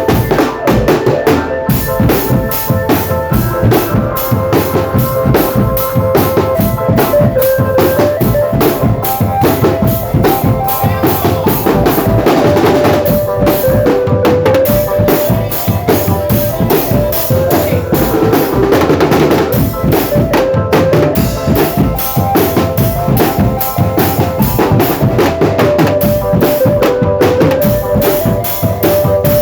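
Indonesian marching drum band playing: a fast, steady pattern of snare and bass drums, with a melody line carried over the drumming.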